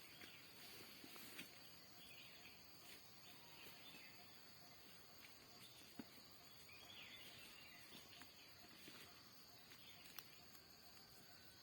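Near silence: faint, steady, high-pitched chirring of insects, with a few faint clicks.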